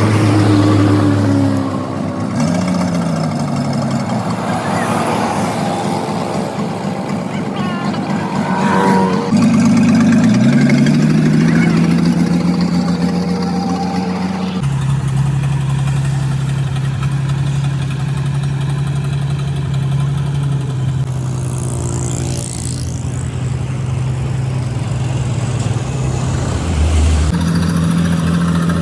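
Heavy truck's engine running and revving, its pitch falling and rising, then holding steady after an abrupt change about halfway through.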